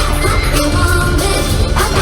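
Loud K-pop song playing, with a singing voice over a heavy, steady beat.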